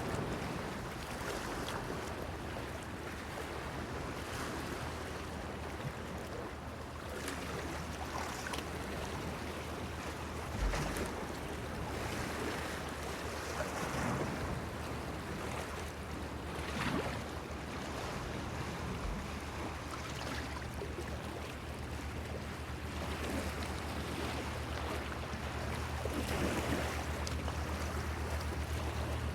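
Small waves washing against a stone breakwater pier, surging in now and then over a steady wash of water. A steady low hum runs under it and grows stronger in the last several seconds.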